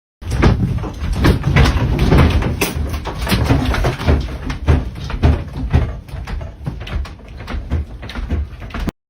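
A building shaking in an earthquake: a heavy low rumble packed with the rapid rattling and banging of doors and loose objects. It eases a little in the last few seconds, then cuts off abruptly.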